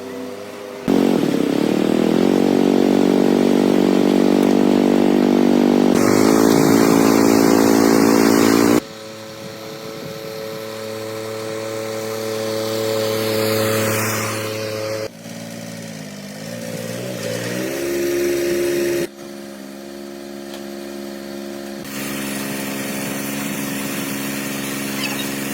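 A motor or engine running steadily, heard in a string of short, abruptly cut clips that each change its pitch and loudness. The loudest clip is the first, and the pitch briefly sags and climbs again a little past the middle.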